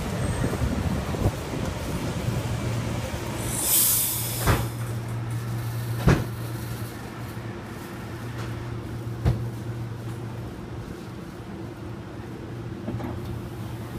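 Metro-North M8 electric multiple-unit train rolling to a stop, its running rumble fading over the first few seconds. About four seconds in comes a short burst of air hiss, then a few sharp knocks. After that the standing train gives off a steady low hum.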